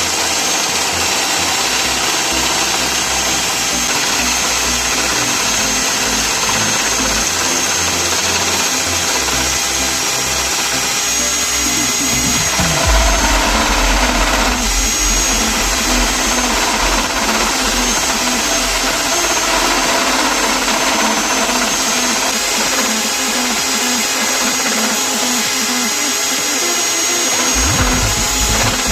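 Homemade drill-driven wood lathe running steadily with a high motor whine, as the workpiece is turned.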